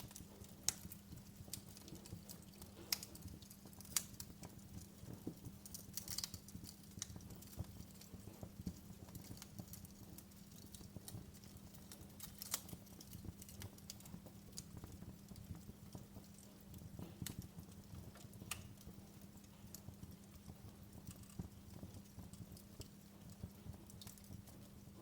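Wood fire crackling: irregular sharp pops and snaps, a few a second, over a steady low hum.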